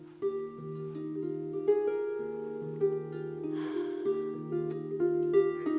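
Harp playing a gentle, repeating pattern of plucked notes that ring on under one another, with a brief soft hiss about three and a half seconds in.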